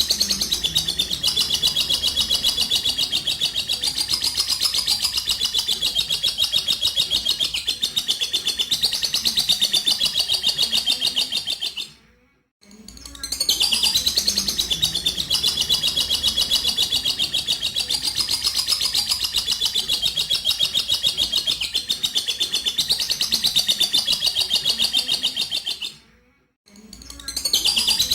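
Lovebird's long 'ngekek' chatter: a rapid, high, continuous trill that is held for about twelve seconds at a stretch. It breaks off briefly about twelve seconds in and again near the end, then starts again.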